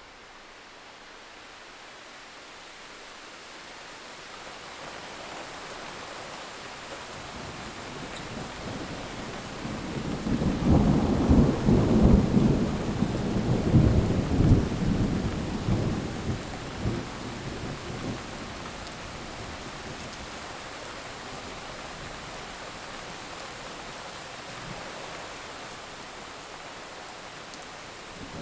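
Steady rain, swelling over the first several seconds, with a long rolling peal of thunder starting about ten seconds in. The thunder is loudest for a few seconds, then dies away while the rain carries on.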